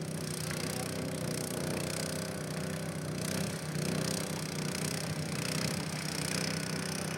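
A car engine running steadily, with a low even hum.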